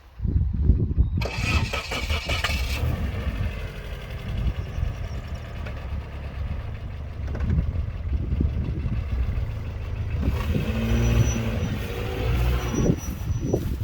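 Mitsubishi Pajero iO's 2.0-litre petrol engine running and revving under a steady low rumble while the car is stuck in wet grass. There is a burst of hiss about a second in, and the engine pitch rises and falls near the end.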